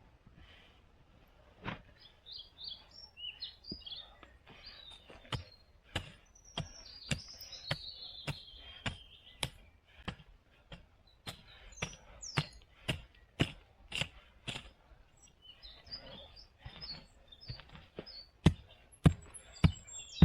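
Small birds chirping, with a run of sharp knocks and cracks about two a second, louder near the end.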